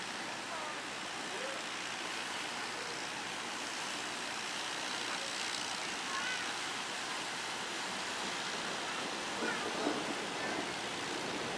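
Steady rush of surf and waves, with faint distant voices.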